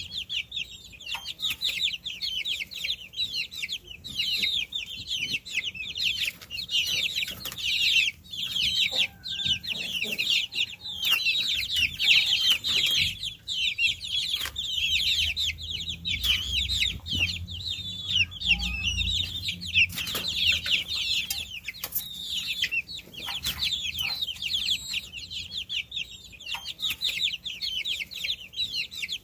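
A group of baby chicks peeping continuously, many short high chirps overlapping.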